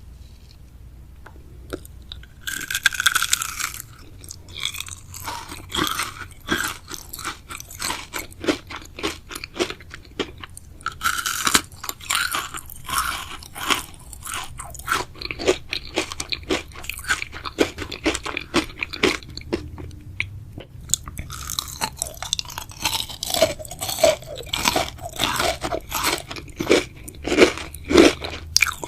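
Close-miked chewing and biting of jelly and gummy sweets: dense wet clicks and smacks with crunchy bites. The chewing starts after a couple of quiet seconds, and louder bites come about 3, 11 and 22 seconds in.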